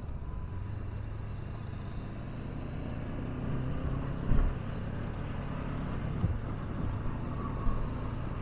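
Honda CB500X's 471 cc parallel-twin engine running steadily at a slow cruise with road noise, and a brief thump about four seconds in.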